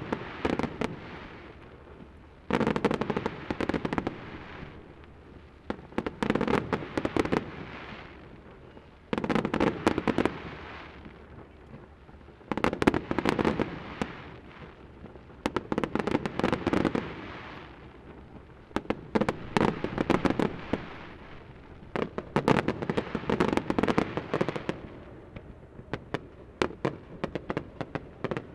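Aerial fireworks shells bursting in salvos, one about every three seconds. Each salvo is a quick volley of sharp bangs and crackles that dies away in a rolling rumble before the next one.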